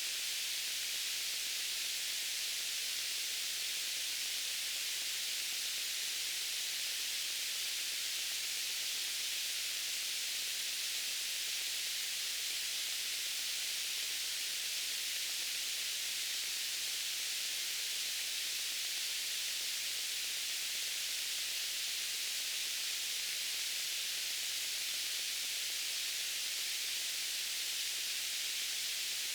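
Steady white noise: an even hiss, brightest in the high end, that does not change.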